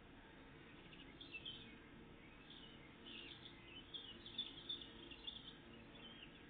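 Small garden songbirds singing and chirping faintly: a run of short, high song phrases and calls from about a second in until near the end.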